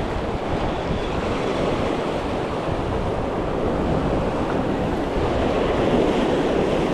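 Ocean surf washing steadily against the shoreline, with wind rushing on the microphone.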